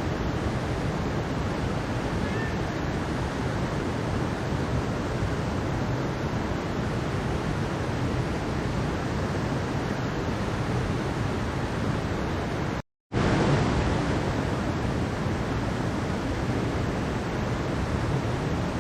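Mountain stream rushing, a steady, dense water noise. About two-thirds of the way through it cuts out completely for a split second, then resumes unchanged, like a loop point in the recording.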